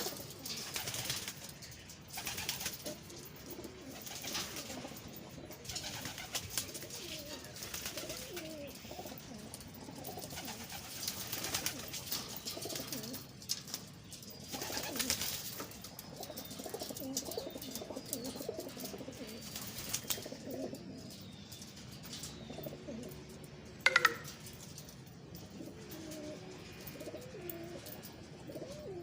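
Young racing pigeons cooing, many low wavering coos overlapping, with scattered rustling and one sharp click about 24 seconds in.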